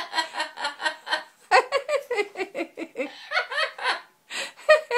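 Amazon parrot mimicking human laughter: a long run of quick, pitched 'ha-ha' pulses, about five or six a second, with a short break about four seconds in.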